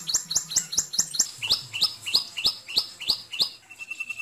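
A bird calling: a rapid run of sharp, identical chirps, about five a second, that drops to a lower, slower run about a second and a half in, followed near the end by a single held whistled note.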